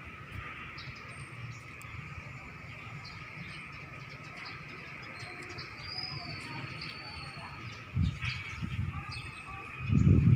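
Wild birds chirping and calling over a steady high background chorus, with a thin whistled call about six seconds in. A low rumble comes in about eight seconds in and grows louder near the end.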